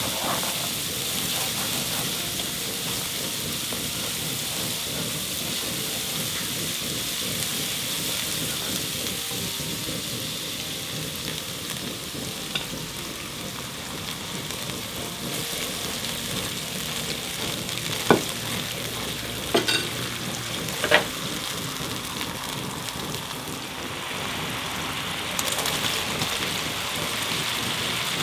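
Hot oil sizzling steadily as food fries, with a few sharp taps of a utensil against the pan in the second half.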